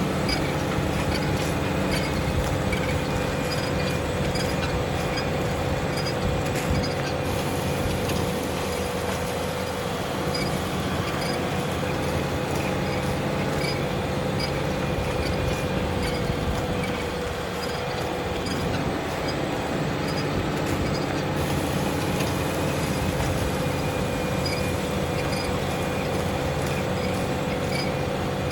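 Fendt tractor's diesel engine running steadily under load while pulling a plough, a continuous drone with a steady tone, easing slightly for a moment just past halfway.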